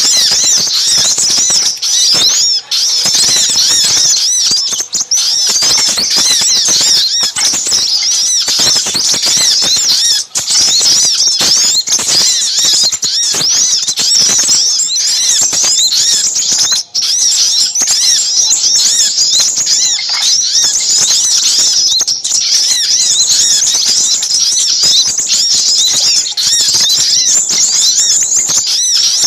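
Bird-lure recording of many small birds chattering at once: dense, rapid, high-pitched chirps and twitters with hardly a break. It is sold as a 'noisy' sogok ontong call mix combined with sepah raja, played to draw small birds in for trapping.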